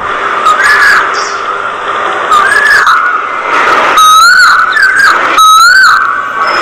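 A bird whistling the same short rising-and-falling note over and over, roughly every second or two, over a steady hiss.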